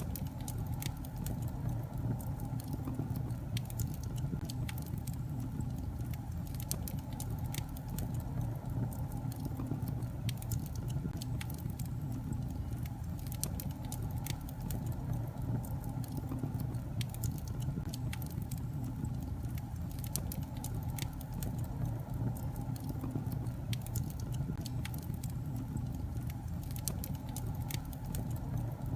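Wood fire burning in a fireplace: a steady low roar of flames with frequent sharp, irregular crackles and pops from the burning logs.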